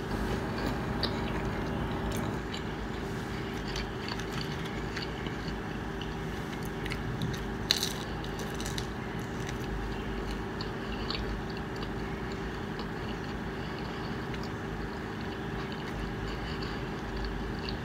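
A person chewing meat lover's pizza, with small mouth clicks throughout and a sharper bite about eight seconds in, over a steady background hum.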